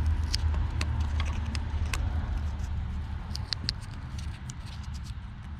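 Small scattered clicks and crinkles of sticky tape being wrapped around the end of a thin wire, over a low steady hum that slowly fades.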